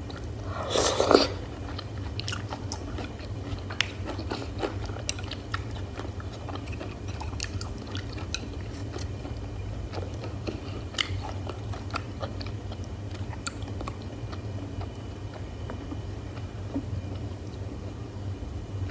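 Close-miked eating: chewing with many small wet clicks and smacks of the mouth, and one louder bite about a second in. A steady low hum runs underneath.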